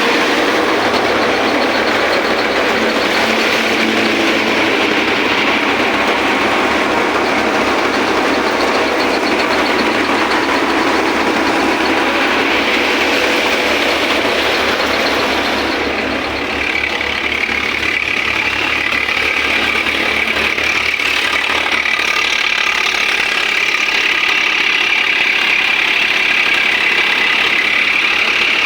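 Swaraj 744 FE tractor's three-cylinder diesel engine running steadily, with a rapid, even low pulsing. About three quarters of the way through, the low pulsing fades and a higher hum comes up stronger.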